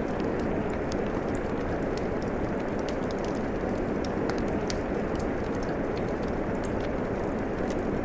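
Steady rain falling, with a fireplace fire crackling over it in scattered sharp pops.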